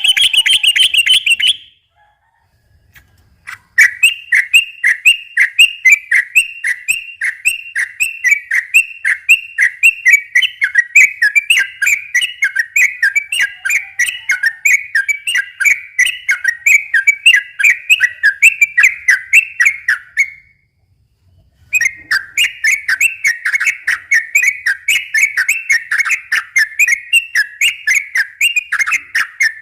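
Yellow-vented bulbul (trucukan) singing its long 'ropel' song, a fast run of repeated chattering notes at about three a second. The long runs break off once about 20 seconds in and resume after about a second, with a short burst and a gap at the start.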